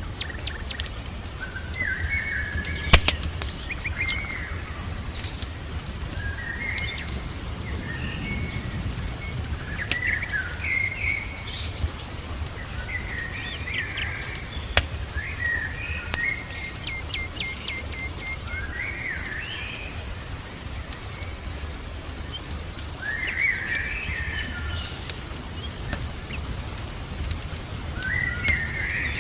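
Birds calling in short, repeated chirping phrases over a steady low background hiss. Scattered sharp crackles from a fireplace, the loudest about three seconds in, are mixed in with the calls.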